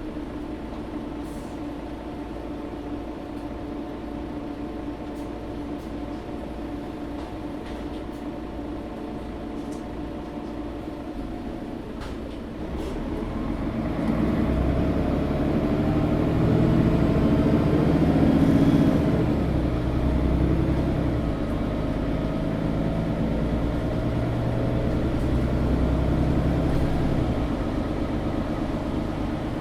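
Engine of a Mercedes-Benz O530 Citaro G articulated bus heard from inside the passenger cabin, running steadily and quietly at first. About halfway through it revs up and grows louder as the bus accelerates, and eases off again near the end.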